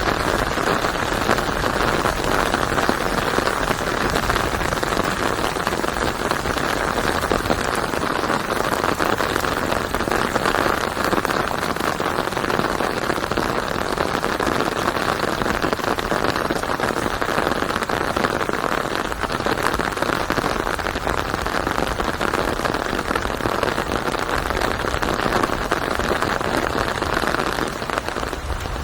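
Steady rain falling, an even dense patter that eases slightly near the end.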